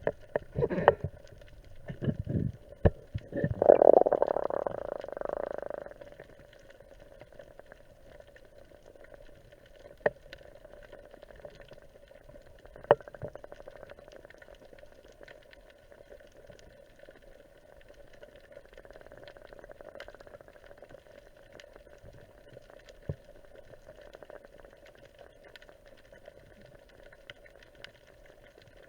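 Water noise from a spearfisher's dive: splashing and a rush of bubbles in the first few seconds. It settles into faint, muffled underwater ambience with a steady low hum and two sharp clicks near the middle.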